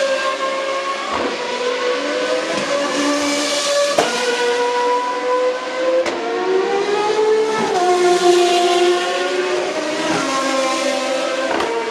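Race car engines running hard, several at once, their pitches rising and falling, with a sharp crack every couple of seconds.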